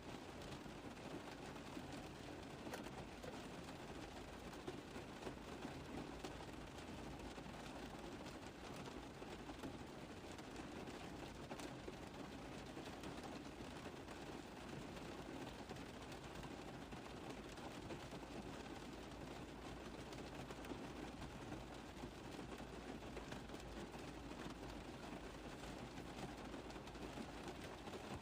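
Steady rain tapping on a car roof: a dense, even patter of countless small drop impacts with no lulls.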